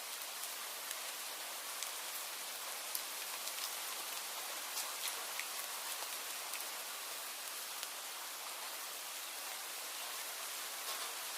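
Steady rain falling, a constant hiss with scattered sharp drips and taps of individual drops landing on a surface.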